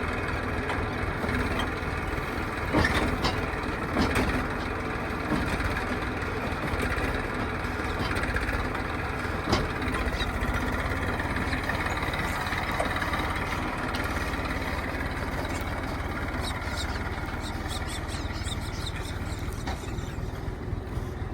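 Heavy diesel engine running steadily, with a few sharp knocks, one about three seconds in, one at four seconds and one near the middle.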